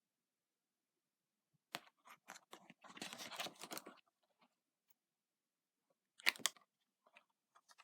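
Paper rustling and crackling as a page of a picture book is turned: a click, about two seconds of rustling, then two sharp clicks later on.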